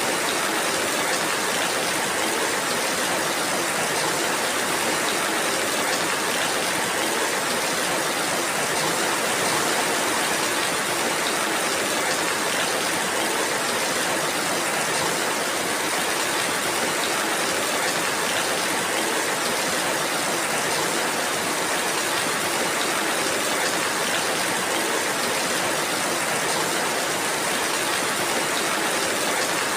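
Steady rainfall: an even, unbroken hiss of rain that holds the same level throughout.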